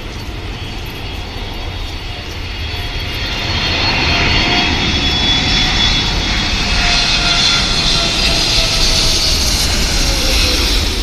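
Jet airliner on its landing approach passing close by: the jet engine noise grows louder about four seconds in and stays loud, with a high whine over a deep rumble, and a whining tone drops in pitch near the end as the plane goes past.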